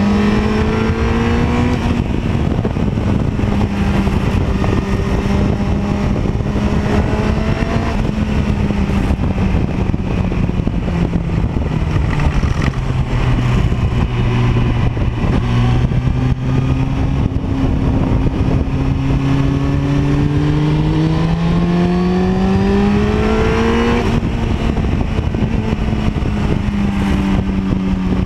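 Honda CBR900RR's inline-four engine at speed, revs climbing and falling through the gears, with a long climb in the second half that ends in a sudden drop at an upshift. Heavy wind rush runs under the engine note.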